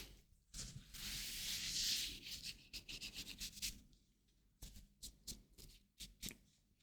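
Hands rubbing, a steady hiss for about three seconds, then a scatter of short light clicks and crackles in the second half.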